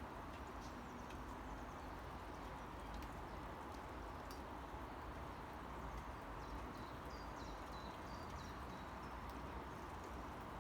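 Steady light rain with scattered sharp drips, and a small bird giving a few short, falling chirps about seven to nine seconds in.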